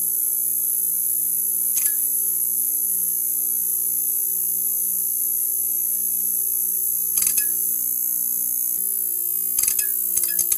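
Neon sign buzzing: a steady electrical hum with a high hiss, broken by short crackling sputters about two seconds in, again around seven seconds in, and several times near the end.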